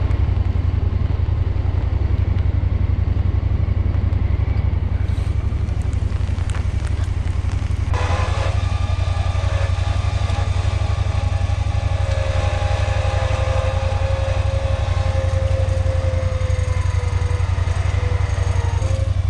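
A small engine running steadily. About eight seconds in, a higher whine joins and its pitch sags slightly toward the end, as if the engine takes on load.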